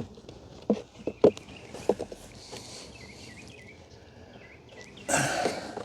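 Wooden beehive frames knocking and clicking a few times as they are handled during a hive inspection, then a short rushing hiss about five seconds in.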